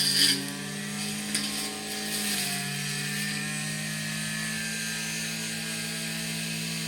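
Small petrol engine of a brush cutter running at a steady speed, its pitch shifting slightly a couple of times, with a few sharp ticks right at the start.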